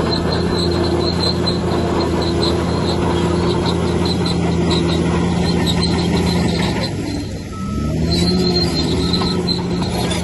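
Crawler bulldozer running under load, its steel tracks squealing in a regular squeak about two to three times a second. The engine drops off briefly about seven seconds in, then comes back up in pitch.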